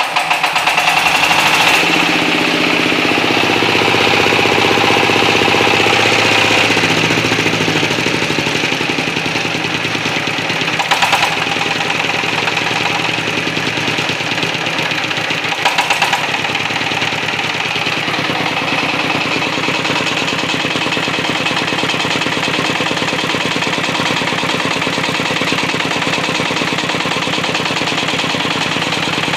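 ZS1115 single-cylinder diesel engine running after its cylinder head rebuild. It comes up to speed over the first couple of seconds, its note shifts for several seconds before settling into a steady, even run, with two sharp knocks about 11 and 16 seconds in.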